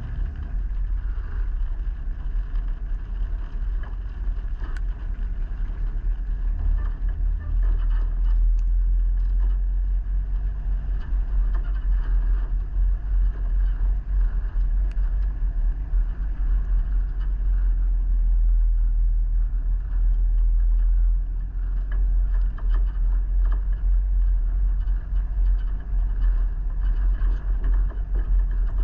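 A vehicle driving: a steady low rumble of engine and road noise, with a few small knocks and rattles.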